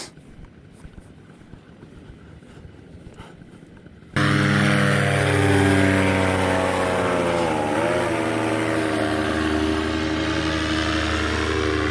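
Faint wind and outdoor noise. About four seconds in, a loud aircraft engine cuts in abruptly and runs steadily, its pitch wavering briefly near the eight-second mark.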